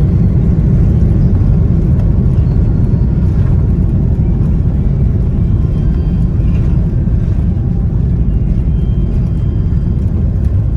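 Steady, loud low rumble inside an Airbus A330-300's cabin: engine and airflow noise during the landing.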